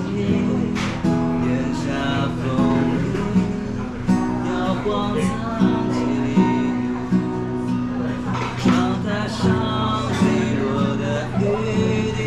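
Acoustic guitar strumming and picking a melody in an instrumental passage of a song, with no singing.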